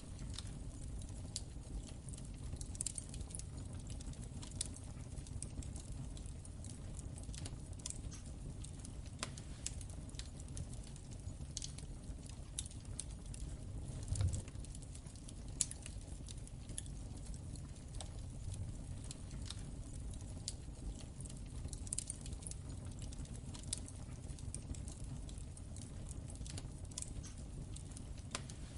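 Wood fire in a fireplace crackling: a steady low rumble of the flames with irregular small pops and snaps, and one louder pop about fourteen seconds in.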